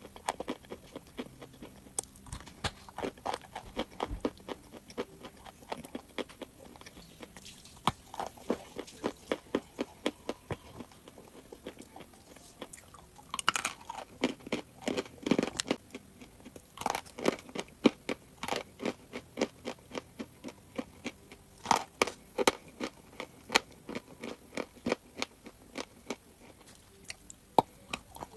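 Crunchy chalk being bitten and chewed, a quick run of crisp crunches with a denser cluster of louder bites about halfway through.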